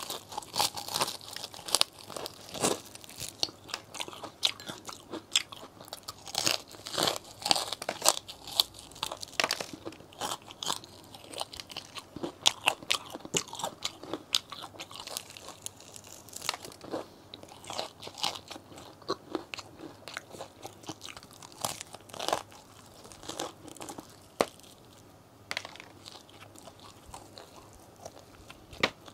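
Biting and chewing crispy KFC fried chicken wings, close to a clip-on microphone: an irregular run of sharp crunches that grows sparser near the end.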